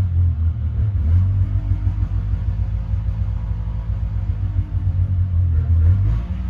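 Yamaha V-Max three-cylinder two-stroke snowmobile engine running with a steady low rumble, not running cleanly: one cylinder is fouling its plug.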